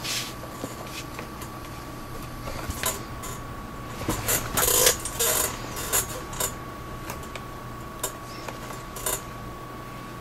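Hands working leather lace through a catcher's mitt: scattered clicks and knocks of handling, with a longer stretch of rubbing and pulling about four to five seconds in.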